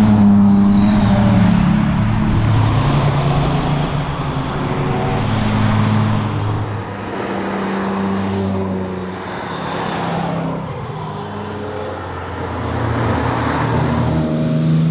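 Chevrolet Nova's engine running hard on a rally road, its revs climbing and dropping several times as the driver works through the gears and corners, over steady road and tyre noise.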